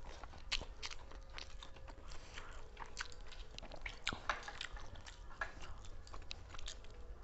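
Close-up eating sounds: fast chewing and biting, with many short, sharp, irregular clicks.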